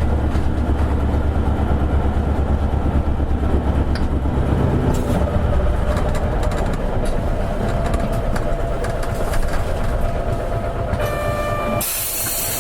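Isuzu KL-LV280N1 city bus's diesel engine heard from inside the cabin, running hard under load with a deep rumble, then easing off about halfway. Near the end a short electronic chime sounds, followed by a sudden loud hiss of compressed air.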